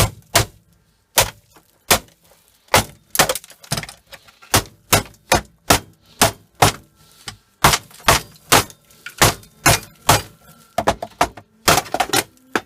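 Repeated sharp knocks and cracks, two to three a second in an uneven rhythm, as a filter part from a dishwasher is struck and broken apart.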